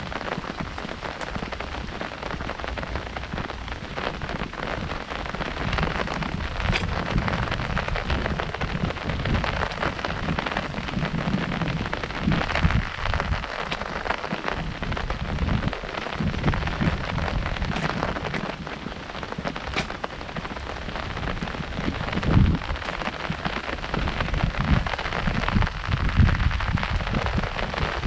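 Heavy rain drumming on an umbrella overhead: a steady, dense patter with irregular low thuds.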